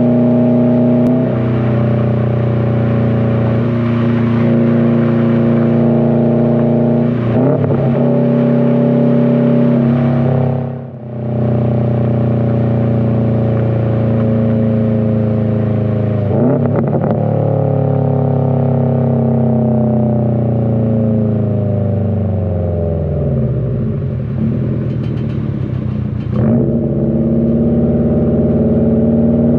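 2020 Subaru WRX STI's turbocharged 2.5-litre flat-four running through an AWE Track exhaust while driving, with several gear changes. About eleven seconds in the engine briefly drops off as the throttle lifts for a shift. Later the engine note falls slowly for several seconds as the car slows, then picks up again near the end.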